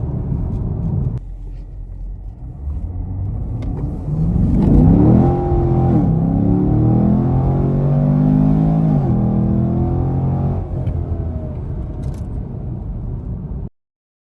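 Chevrolet Camaro SS 6.2-litre LT1 V8 fitted with a JLT cold air intake, running and revving. The engine note drops about a second in, climbs sharply around four seconds in, holds high for a few seconds, then falls away. The sound cuts off suddenly near the end.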